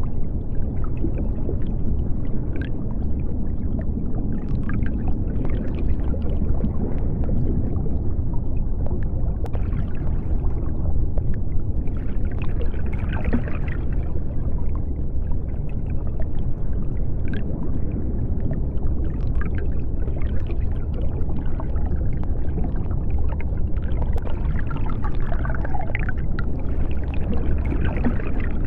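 Deep-sea underwater ambience: a steady deep rumble, with hissy washes that rise and fall every few seconds.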